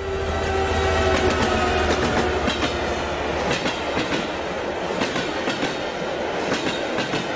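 Train running on rails: a steady rumble with the clickety-clack of wheels over rail joints, swelling in over the first second.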